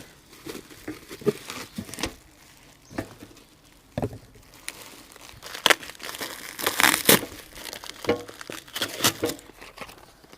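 Packaging being handled and unpacked: crinkling and rustling with irregular sharp scrapes and knocks of cardboard, busiest about six to seven seconds in.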